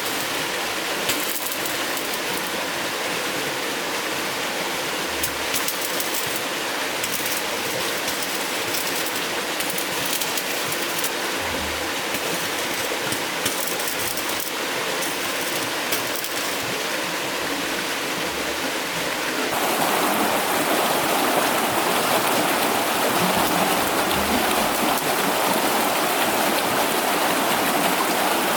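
Steady rushing water, with a few faint knocks here and there; about two-thirds of the way through it abruptly becomes louder and fuller.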